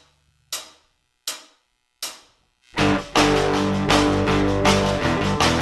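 Three sharp, evenly spaced count-in clicks, then a rock band comes in a little under three seconds in, with electric guitar, bass and drums playing an instrumental intro.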